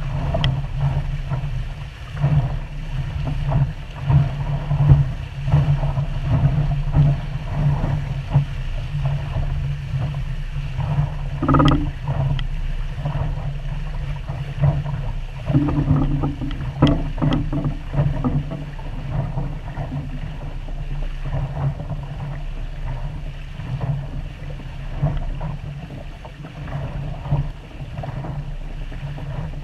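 Water rushing and lapping against a small sailboat's hull as it sails, with an uneven low rumble of wind buffeting the microphone.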